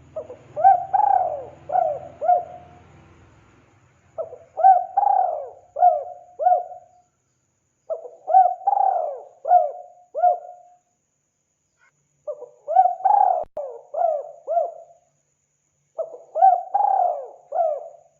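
Spotted dove (tekukur) cooing. There are five repeated phrases of four or five coos each, one phrase about every four seconds.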